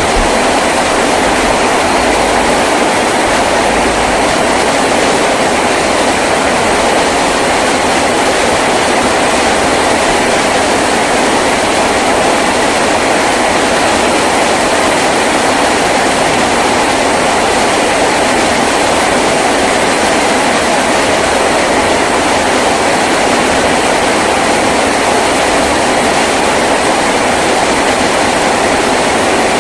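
Heavy rain falling steadily on a tin roof, a dense, unbroken patter.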